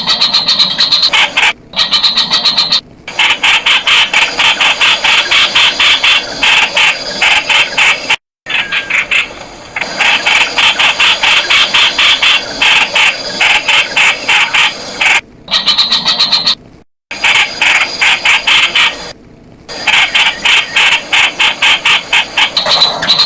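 Streak-eared bulbul calling, a dense run of rapid, harsh repeated notes. It breaks off suddenly for short moments several times.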